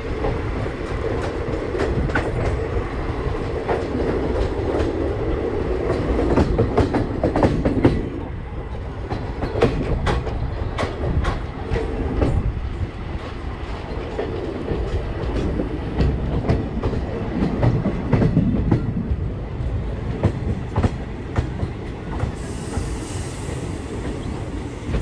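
Express train coaches running at speed on the track: a steady rumble with irregular clacks of the wheels over rail joints. It is louder for the first several seconds and drops a little about eight seconds in.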